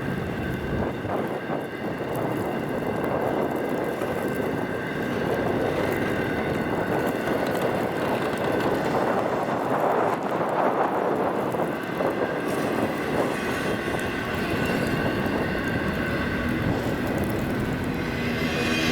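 Freight train rolling past: a steady rumbling noise that swells about halfway through, with faint steady high tones above it.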